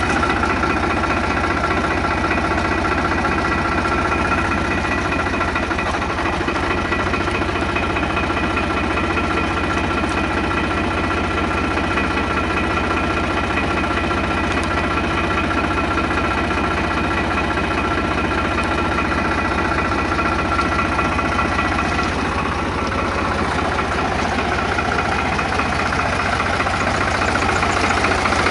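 Fiat DT 45-66 tractor's Iveco three-cylinder diesel engine running steadily at a low, even speed.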